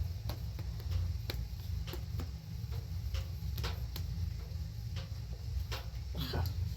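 Irregular sharp taps and clicks, a dozen or so, over a steady low rumble.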